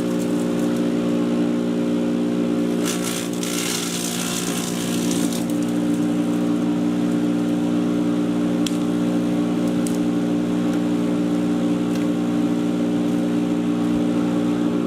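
Patriot 1.5-HP electric chipper shredder running steadily with a constant motor hum. A brighter hissing rush joins it for about two seconds, a few seconds in.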